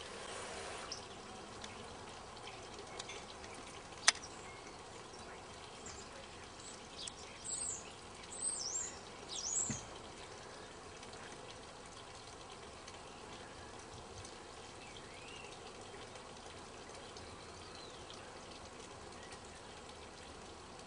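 Quiet outdoor garden ambience with a steady faint hiss. There is a single sharp click about four seconds in, then a small bird gives a short run of high chirps a few seconds later.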